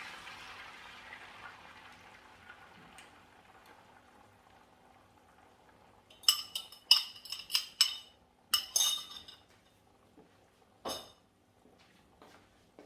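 Beaten eggs sizzling in a hot frying pan, the sizzle dying away over the first few seconds. Then, past the middle, a quick run of about eight sharp ringing clinks of a utensil against the cookware, and a single knock near the end.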